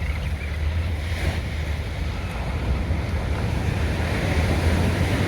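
Sea surf washing in steadily, with wind buffeting the microphone as a low rumble, the sound gradually swelling louder.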